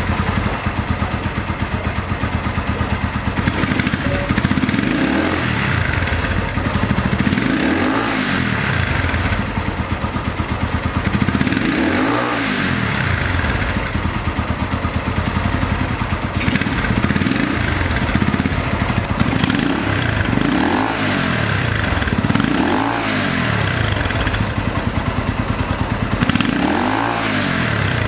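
Yamaha TW single-cylinder four-stroke engine breathing through a stainless down muffler with a short cone end, idling and repeatedly blipped, each rev rising and falling back to idle.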